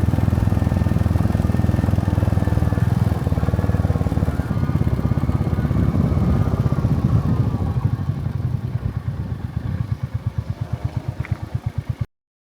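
Royal Enfield motorcycle engine running, its exhaust beat slowing into distinct thumps, about five a second, as it drops toward idle. The sound cuts off abruptly just before the end.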